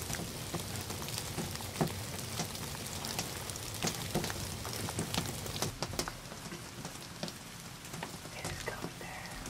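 Light rain falling, with scattered drops ticking irregularly on wet leaves and ground.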